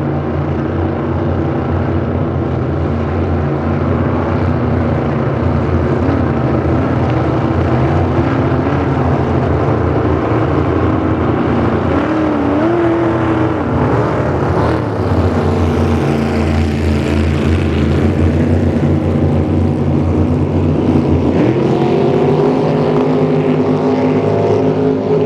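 Drag boat engine running loudly and steadily, its pitch wavering, then stepping up about 21 seconds in and holding at the higher speed.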